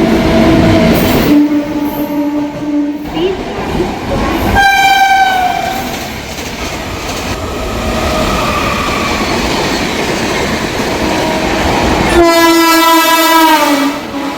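Indian Railways train running past close by, its wheels clattering over the rail joints. A locomotive horn sounds several times: two low blasts early on, a higher blast about five seconds in, and a long blast near the end that falls in pitch.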